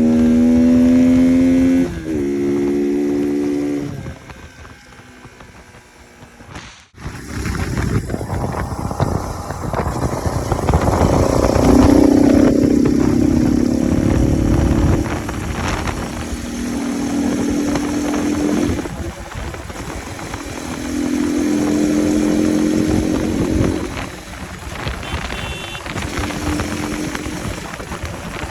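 Bajaj Pulsar RS 200's single-cylinder engine running with its air filter removed, revved again and again so that its note rises and falls in several bursts. The sound dips and drops out briefly about seven seconds in.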